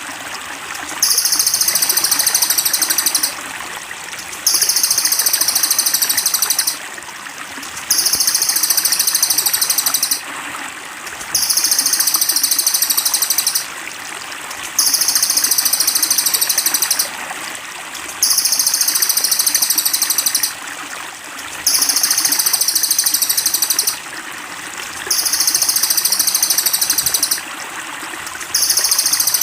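A cililin bird's high, rapid trill, repeated in identical phrases about every three and a half seconds, over steadily trickling water.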